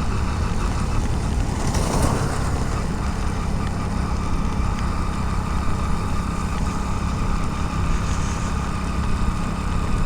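Motorcycle engine running steadily under way, with a hiss of rain, wind and road noise. A brief whoosh comes about two seconds in.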